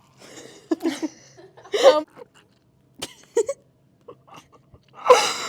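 Bottle of ranch dressing sputtering and farting as it is poured, in four short bursts as air gulps back through the neck.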